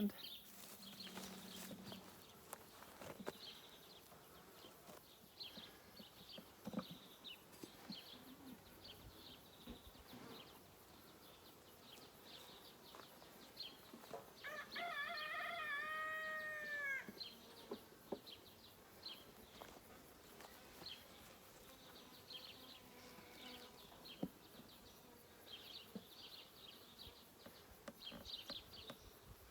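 Faint buzzing of honey bees around an open hive, with scattered small chirps. About halfway through, a rooster crows once, one long arching call.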